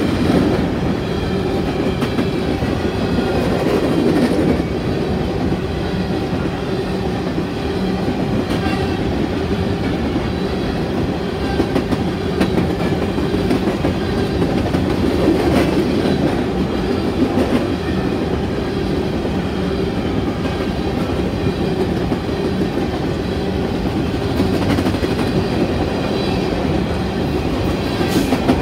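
Coal train's hopper cars rolling past at close range: a steady rumble of steel wheels on rail, with repeated clickety-clack knocks as the wheels cross rail joints.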